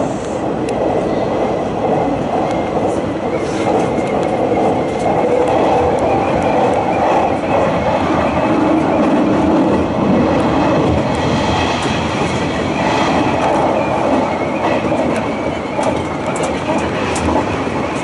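Hanshin Railway electric train running between stations, heard from inside the passenger car: a steady rumble of wheels on the track, with a faint high squeal or whine that swells about eleven seconds in and fades a few seconds later.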